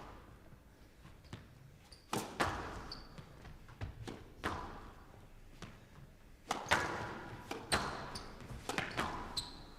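A squash rally: the ball is struck by rackets and smacks off the court walls in sharp, irregularly spaced cracks, each echoing in the enclosed court. Brief high squeaks come in between the shots.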